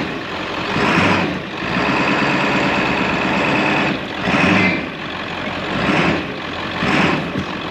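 A 7.3 Power Stroke turbo-diesel V8 running in a 1995 Ford F250 as the truck drives, its sound swelling and falling every second or two.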